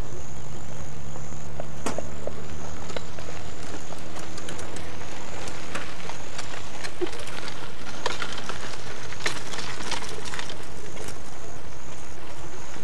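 A train passing at a distance, heard through an old camcorder microphone: a low steady drone that fades out about halfway through, with scattered clicks and rattles through the middle.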